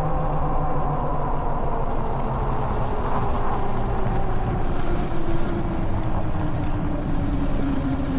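Electric bike riding along: a steady rumble of tyres and wind with a faint motor whine whose pitch slowly falls.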